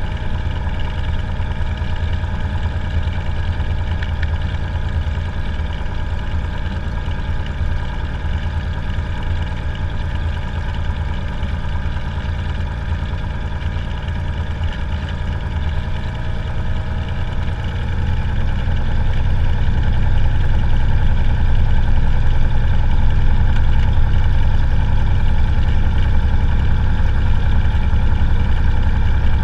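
Cessna 182's piston engine and propeller running steadily, then power coming up about two-thirds of the way through, getting louder and deeper, and holding at the higher setting.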